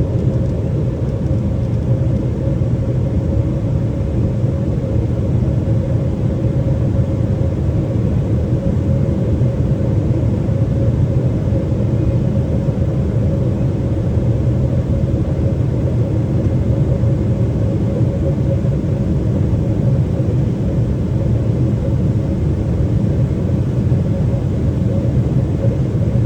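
Steady cabin noise inside a Boeing 777-300ER in descent: a low, even drone of airflow and its GE90 engines, with a steady hum-like tone riding above it.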